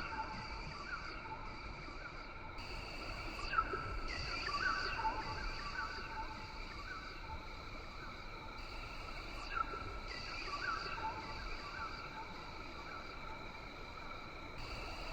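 Rainforest ambience: a steady, high-pitched insect drone with short chirping animal calls repeating throughout.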